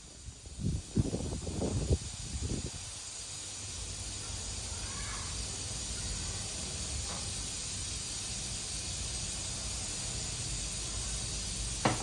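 A few knocks in the first three seconds, then a steady hiss that slowly grows louder and holds, with a few faint short chirps.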